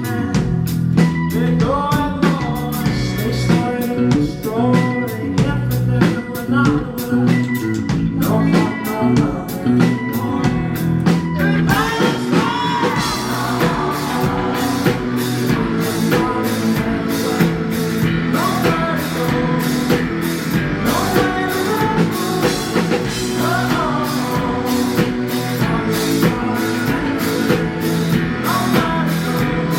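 Rock band playing live with a singer, guitars, bass and drum kit; the playing gets fuller from about twelve seconds in, with a steady cymbal beat.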